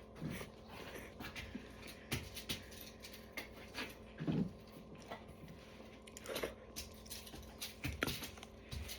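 Quiet eating sounds from instant cup noodles: scattered small clicks and soft mouth noises of chewing, with a few brief louder bursts.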